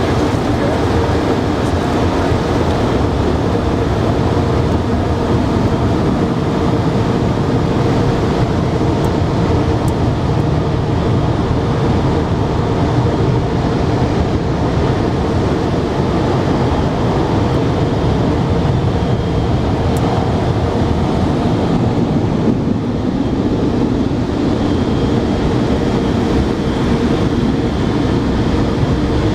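Automatic car wash heard from inside the car: a steady, loud rush of water spray and machinery, with a constant hum underneath.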